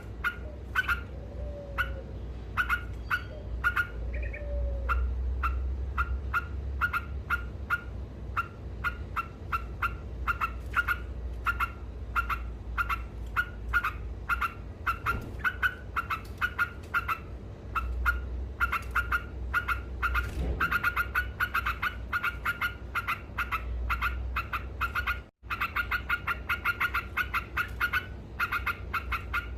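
Sooty-headed bulbul (trucuk) in its rapid 'ngekek' chatter: a long unbroken run of short, sharp repeated notes, a few a second and quickening in the second half. There is a low steady rumble underneath, and the sound drops out briefly near the end.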